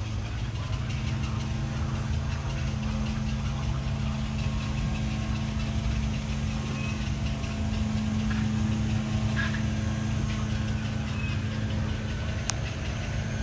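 Steady low hum of an idling motor-vehicle engine, with a few faint short chirps over it and a single sharp click near the end.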